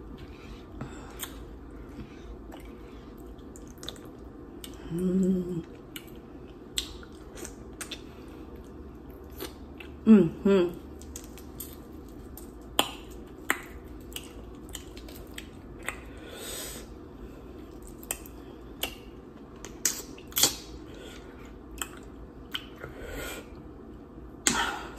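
A person chewing seafood-boil food close to the microphone, with many scattered sharp clicks and two short hummed sounds about five and ten seconds in.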